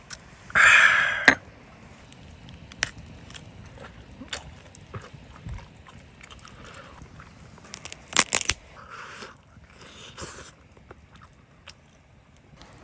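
A person eating: biting and chewing food in a few separate bouts, with scattered sharp clicks between them. The loudest bite comes about a second in, with another cluster around eight seconds.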